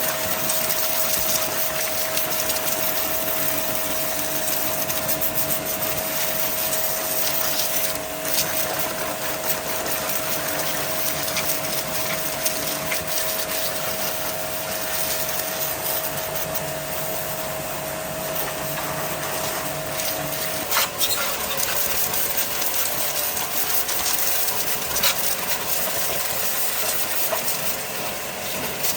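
A small machine running steadily with a hiss and a steady hum whose pitch shifts slightly about two-thirds of the way through, with a few sharp clicks.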